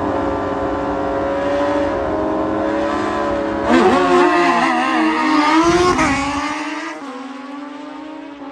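Drag-racing sportbike engines running steadily, then revving harder with a rising and falling pitch about four seconds in, and fading away after about six and a half seconds.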